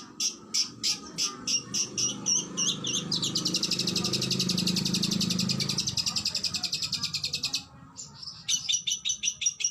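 Oriental magpie-robin (kacer) singing: separate sharp, high notes about three a second, breaking about three seconds in into a fast rattling trill of rapid-fire notes lasting several seconds, then a short pause before the notes start again near the end.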